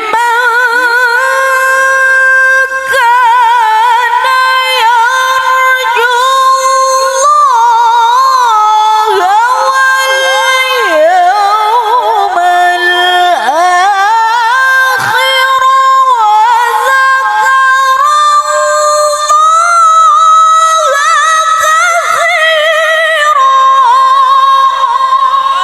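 A woman reciting the Qur'an in melodic tilawah style: one long, nearly unbroken phrase of high held notes with quick ornamental turns and vibrato.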